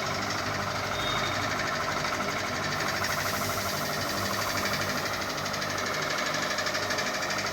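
Ceiling fan running with a steady, fast pulsing mechanical whir and rattle.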